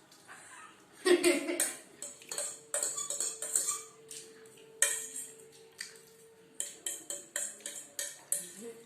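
Cutlery clinking and scraping against plates, a run of irregular sharp clicks, while chow mein is eaten fast. The loudest clatter comes about a second in.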